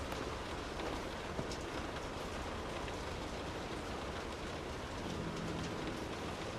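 Steady, soft rain falling on a surface, with faint individual drop ticks.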